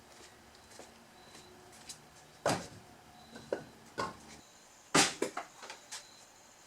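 Split firewood pieces knocking against one another: a handful of sharp wooden clunks, the loudest about five seconds in and followed by a few lighter knocks.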